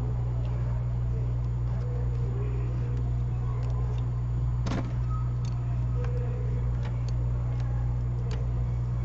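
Steady low hum from running repair-bench equipment, with a few faint, light clicks of small-tool handling on the board; the clearest click comes about halfway through.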